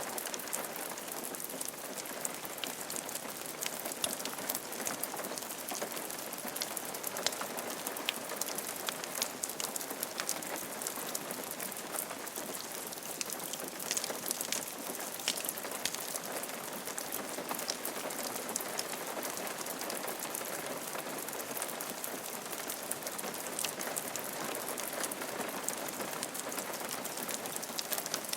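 Steady rain falling on a roof: an even hiss with many individual drops ticking sharply throughout.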